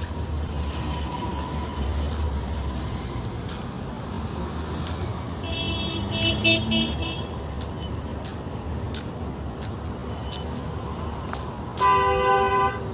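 Road traffic running steadily, with a vehicle horn giving a few quick toots about six seconds in and a louder horn blast near the end.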